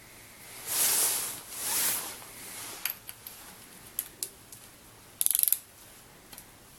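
Hand ratchet wrench at work: two short rasping runs of the ratchet about a second in, a few single clicks, then a quick rattle of ratchet clicks about five seconds in.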